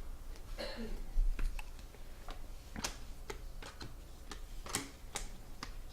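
Trading cards being handled and flipped through by hand: irregular light clicks and taps as the thick cards knock against each other.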